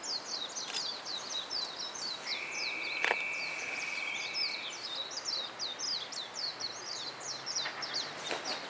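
Birds chirping rapidly and without a break, many quick falling high notes. A steady high whistle sounds for about two and a half seconds near the middle, with a single click about three seconds in.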